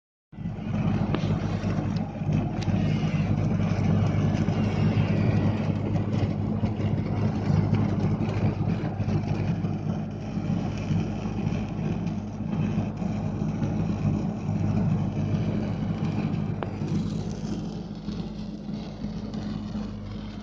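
Electric arc welding on a pipe with a Panasonic welding machine: a continuous crackling, sputtering arc over a steady low electrical hum.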